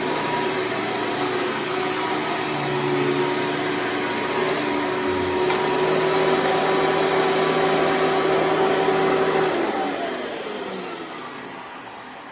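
Hoover Preferred vacuum cleaner running steadily with its motor whine, then switched off nearly ten seconds in, the whine falling in pitch as the motor spins down.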